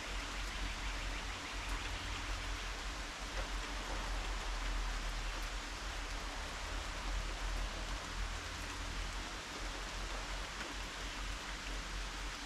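Steady rain falling, a dense, even hiss with a low rumble underneath.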